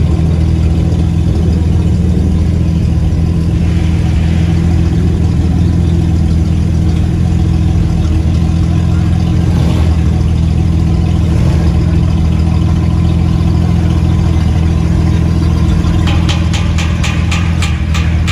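Car engines idling as lowered cars creep slowly into an indoor hall: a steady low engine rumble. Near the end there is a quick run of sharp ticks, about four or five a second.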